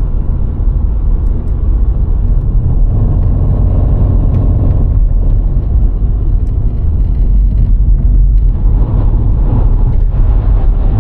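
A VW Golf IV 1.6 driving on the road: a steady low rumble of engine and road noise that keeps going without a break.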